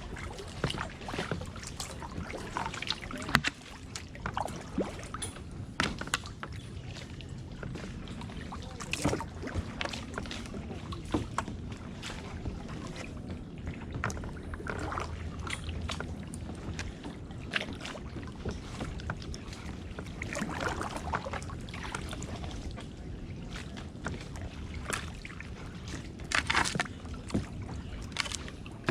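Kayak paddling: paddle blades dipping and splashing in shallow water, with irregular knocks and clicks of the paddle against the boat.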